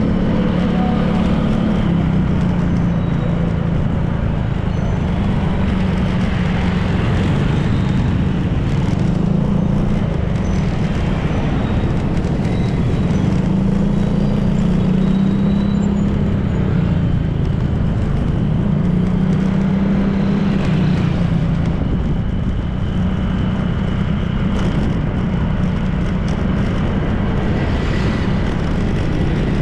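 Honda PCX 160 scooter's single-cylinder engine running at riding speed, its pitch rising and falling gently every few seconds as the throttle changes, over steady road and wind noise.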